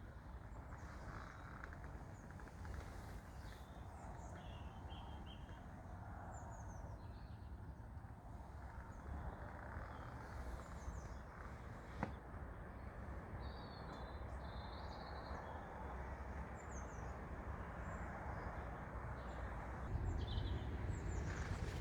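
Outdoor ambience: birds chirping now and then over a steady low rumble, with a single sharp click about twelve seconds in.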